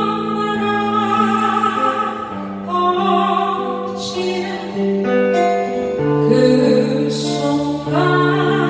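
Live singing with acoustic guitar accompaniment: a long held sung note with vibrato, the chords changing a few times, and the next sung line beginning near the end.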